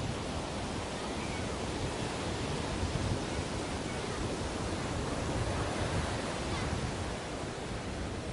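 Ocean surf washing on a beach: a continuous rushing noise that swells slightly a few times as waves break and run up.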